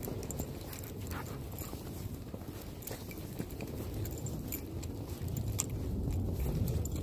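Footsteps crunching through fresh snow, irregular small crunches over a steady low rumble on the microphone.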